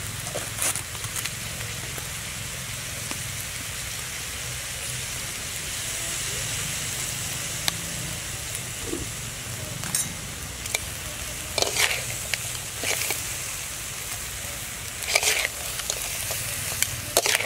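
Small crabs frying in a metal wok, a steady sizzle. A metal spoon scrapes and clinks against the wok a few times, mostly in the second half.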